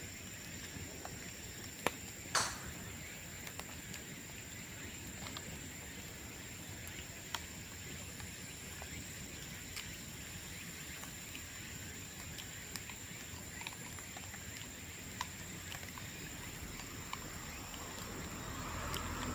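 Bamboo bonfire crackling with sparse, irregular sharp pops, one louder pop about two seconds in.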